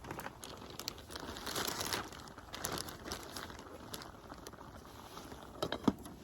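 Crinkling and rustling of something being handled, with scattered light clicks and a few sharper knocks near the end.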